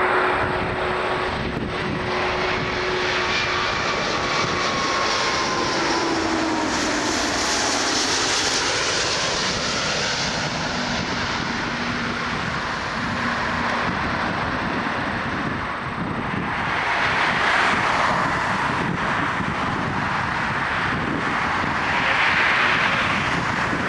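Airbus A340-600 jet flying past low on final approach, its four Rolls-Royce Trent 500 engines whining and rushing. The whine drops in pitch a few seconds in as the aircraft passes, and the engine rush carries on steadily after.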